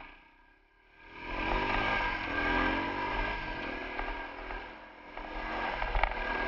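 Single-cylinder four-stroke dual-sport dirt bike engine pulling away and accelerating, with the revs rising, and wind rushing over the helmet-cam microphone. It starts quiet and gets loud about a second in, with a sharp click near the end.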